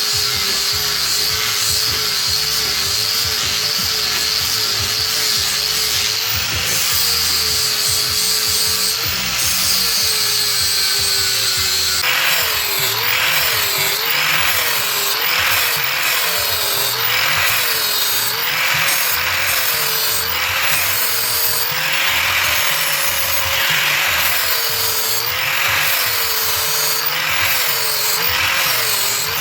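An electric power tool working metal in repeated passes. Its motor tone sags in pitch with each pass, about once a second in the second half, and each sag comes with a scraping rasp.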